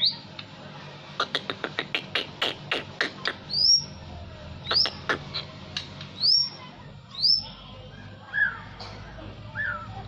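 Songbird singing loudly: a quick run of sharp chips, then a series of rising whistled notes, with lower falling notes near the end.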